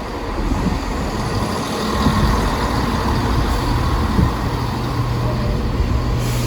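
Diesel multiple unit standing at the platform with its engine idling: a steady low rumble and hum that grows stronger about five seconds in.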